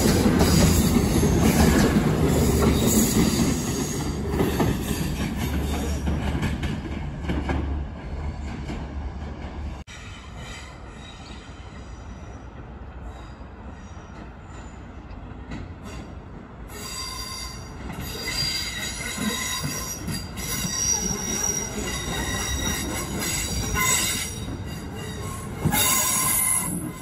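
A CrossCountry Voyager diesel multiple unit rumbles along the platform, its engine and wheel noise slowly fading through the first third. After a sudden drop to quieter background, a South Western Railway Class 450 electric multiple unit comes round the curve into the station in the second half, its wheels squealing in several steady high tones that grow louder toward the end.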